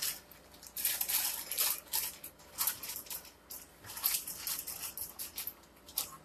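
Packaging rustling and crinkling in irregular short bursts as food items are handled and packed away.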